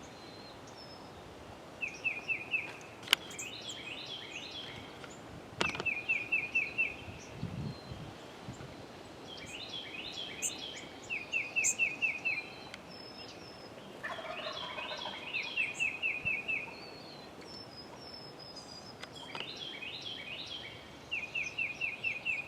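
Eastern wild turkey gobbler gobbling again and again, about six rapid rattling gobbles a few seconds apart. Two sharp clicks come about 3 and 6 seconds in.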